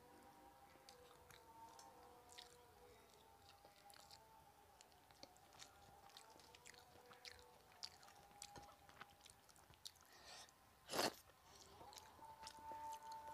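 Soft, close-up chewing of rice and fish, with many small wet mouth clicks. There is one short, louder noise about eleven seconds in.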